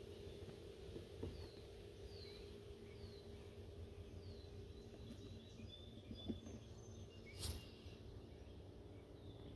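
Faint outdoor ambience: a bird repeating short, high downward chirps, over a steady low hum of honeybees at the open hive. A single sharp click about seven and a half seconds in.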